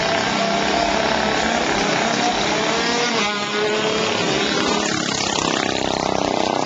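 Small minibike engines running hard at high revs, their pitch wavering. About five seconds in, one engine's pitch rises and then holds steady.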